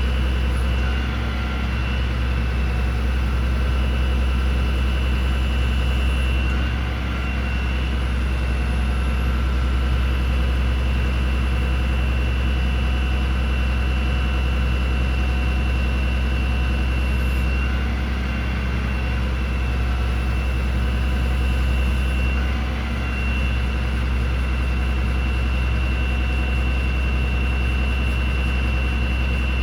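The Cummins ISB 6.7-litre turbo diesel of a Ford F750 bucket truck idling steadily, a deep constant hum with a steady high-pitched whine over it.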